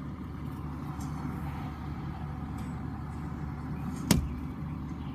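Steady low hum of vehicle engines idling, with a sharp click about four seconds in.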